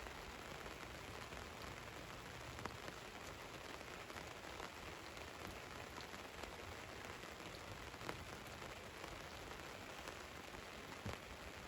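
Steady rain falling on a van, a continuous patter with separate drop ticks scattered through it.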